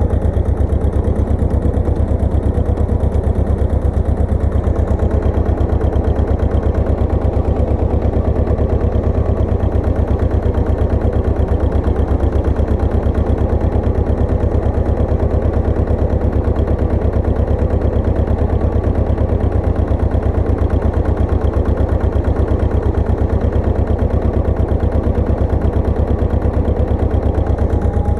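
Pasquali 980 EX tractor engine running steadily, a rapid, even run of firing pulses that holds the same speed throughout.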